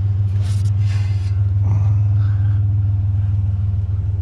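Pickup truck engine running steadily with a deep, even exhaust drone through Flowmaster mufflers. Two short hissing noises come about half a second to a second in.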